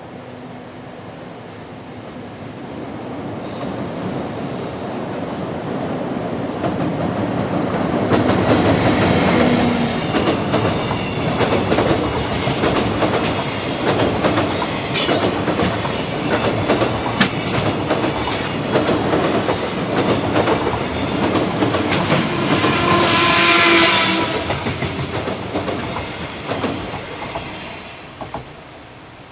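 A freight train hauled by EF64 electric locomotives passes by. Its rumble builds up over several seconds, then the wheels clack rapidly over the rail joints for about twenty seconds, with a brief high ringing tone near the loudest point, before it fades away.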